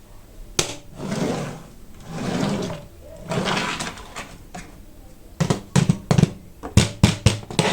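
Toy packaging being handled: a sharp click, three swishing rustles about a second apart, then a quick run of sharp clicks and knocks.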